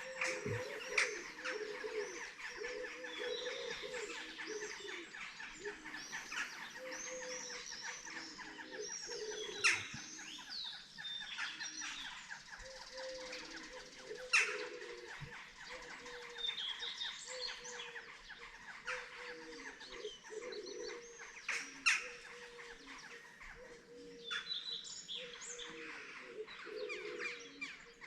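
Dawn chorus of many songbirds, with dense overlapping chirps and trills and a lower line of wavering calls underneath. Several brief, sharper sounds stand out, the loudest about ten, fourteen and twenty-two seconds in.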